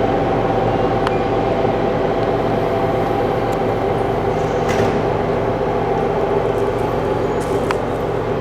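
Train running at a steady speed: a constant rumble with a steady hum, with a few faint clicks.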